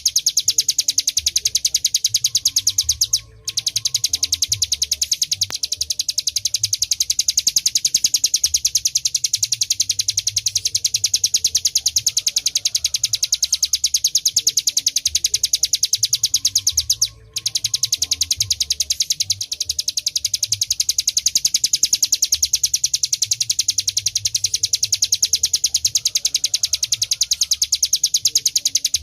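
Ciblek gunung singing a long, unbroken 'ngebren' song: a very rapid, even stream of high-pitched notes, breaking off briefly twice.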